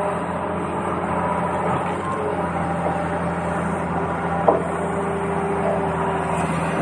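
Steady hum of a small motor, with one sharp click about four and a half seconds in.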